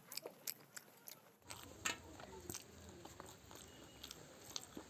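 Close-miked eating sounds: chewing and biting, with many short wet mouth clicks and smacks. A low background hum comes in about a second and a half in.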